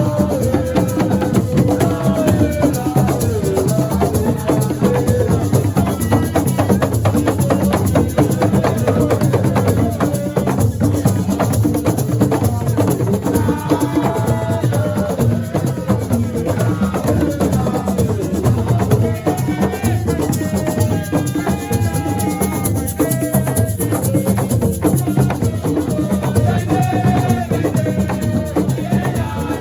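Live assiko percussion music: drums, rattling shakers and wood-block knocks in a dense, steady rhythm under a singer's gliding vocal line.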